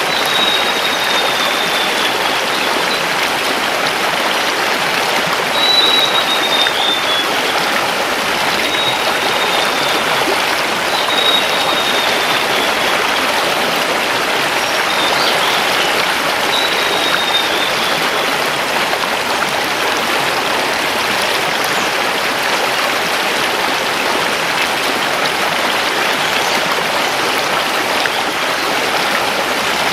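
Mountain river rushing over stones, a steady full wash of water. A forest bird gives about six short, high, slightly falling whistled notes a few seconds apart over the first two-thirds, then falls silent.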